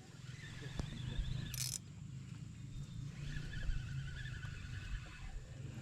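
High, repeated chirping trills from riverside wildlife come and go in three stretches over a steady low hum. A short, loud hiss comes about a second and a half in.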